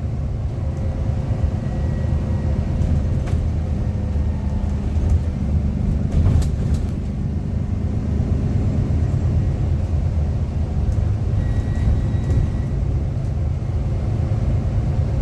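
Bus engine and running noise inside the passenger cabin: a steady low rumble with a faint, thin steady whine over it, engine noise also being picked up and played through the bus's announcement speaker. A single short click about six seconds in.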